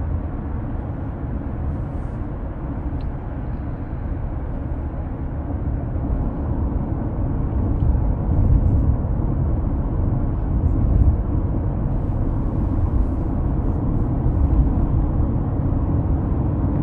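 Steady low road and engine rumble heard from inside a moving car's cabin, growing somewhat louder about halfway through.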